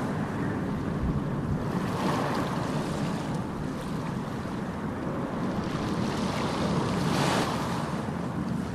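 Ocean surf: a steady wash of breaking waves, with two waves breaking more strongly, one about two seconds in and a louder one about seven seconds in.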